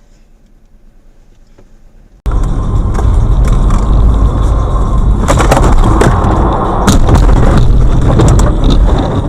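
Faint background, then about two seconds in a sudden, very loud, distorted rumbling clatter with many sharp knocks that runs almost to the end.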